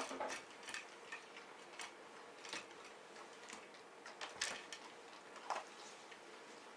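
Miniature dachshund eating dry food from a bowl: irregular sharp clicks, about one or two a second.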